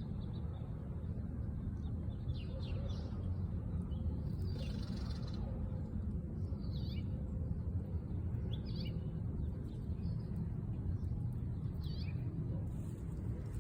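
Short, high, falling bird chirps, one or two at a time every few seconds, over a steady low background rumble.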